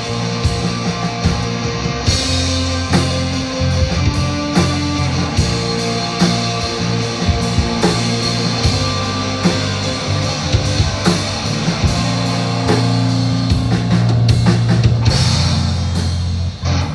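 Live rock band playing an instrumental passage on drum kit and guitars, with cymbal crashes about two seconds in and again near the end, and a brief break just before the end.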